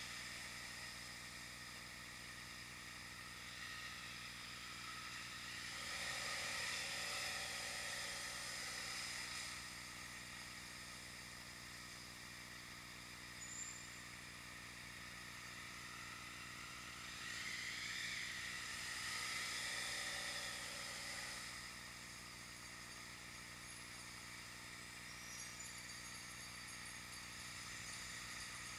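Steady road and traffic hiss recorded through an action camera during a ride, swelling twice for a few seconds as vehicles pass.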